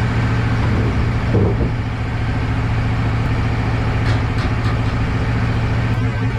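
Wood-Mizer LT15 Wide portable sawmill's engine running at a steady speed, a constant low hum with a noisy wash above it.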